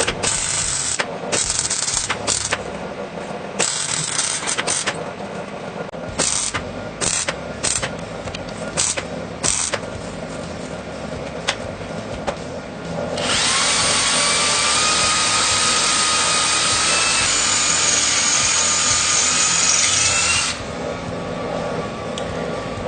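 Power tool worked in short bursts, then run steadily for about seven seconds with a whine rising slightly in pitch before it cuts off.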